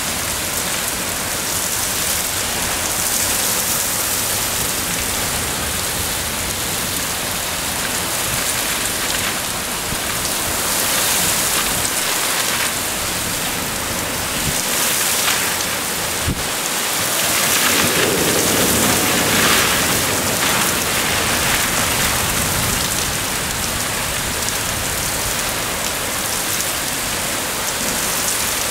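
Torrential thunderstorm rain pouring steadily onto pavement and lawn, swelling louder for a few seconds about two-thirds of the way through.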